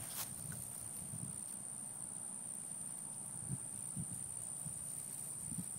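Steady high-pitched insect chorus, crickets, with a couple of faint soft thuds around the middle.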